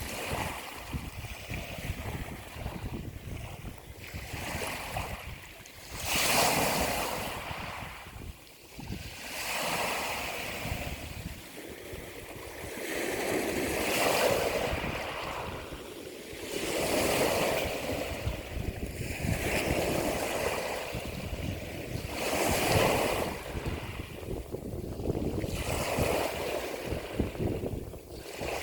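Ocean waves washing on the shore, the surf swelling and falling every few seconds, with wind rumbling on the microphone.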